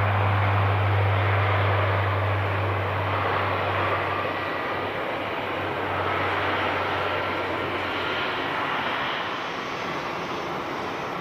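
Airliner engine noise from an aircraft at the airport, with a strong low hum that fades out about four seconds in while the broader engine sound slowly dies away.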